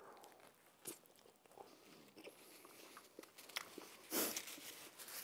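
A man biting into and chewing a tuna sub sandwich: faint, soft mouth clicks and smacks, with a louder breathy noise about four seconds in.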